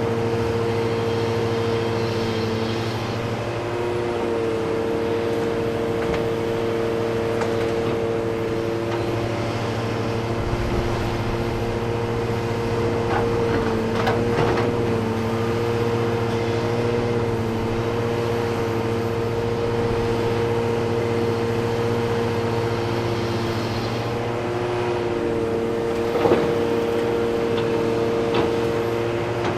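Heavy diesel earthmoving engines from excavators and haul trucks at work, running steadily with the engine note shifting a few times as the load changes. A few sharp knocks stand out, the loudest near the end.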